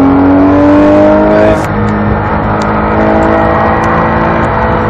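Porsche 911 GT3's flat-six engine accelerating hard, its pitch climbing, dropping once at a gear change about a second and a half in, then climbing again.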